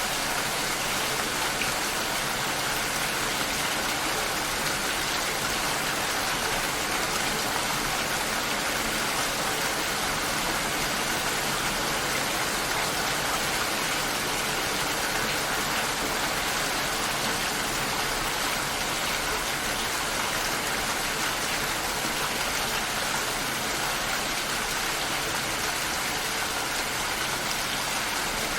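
Steady rain shower falling and pattering on surfaces outside a window, an even hiss without pauses.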